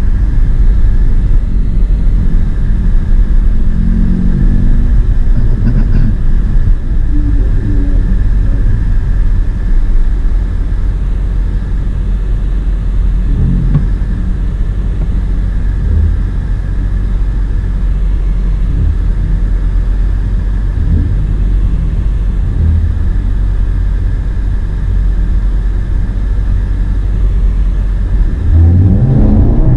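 Audi TT's engine running at low speed, heard inside the cabin as a steady low rumble while the car creeps forward. Near the end the engine revs up, its pitch climbing quickly.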